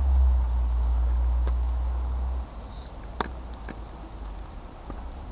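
A low rumble on the microphone that stops abruptly about two and a half seconds in, followed by a few faint clicks.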